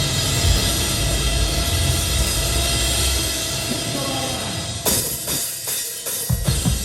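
A hardcore/metalcore band playing live at full volume, a dense wall of guitar, bass and cymbals. About five seconds in the low end drops out briefly, then the kick drum and bass come back in with a steady pounding beat.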